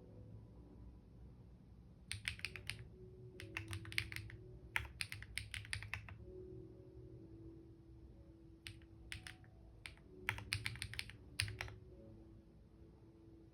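Typing on a computer keyboard: runs of quick key clicks with pauses between them, stopping for a couple of seconds midway before starting again.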